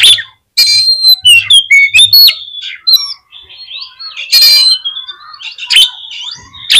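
Oriental magpie-robin (kacer) singing loudly: a rapid, varied run of whistled notes, short pitch glides and chirps, broken by a few harsh rasping notes, the loudest about halfway through. It is the excited, full song used as a lure to rouse caged kacer.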